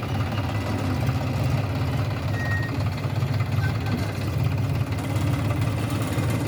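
Diesel engine of heavy machinery running steadily with a low, even rumble.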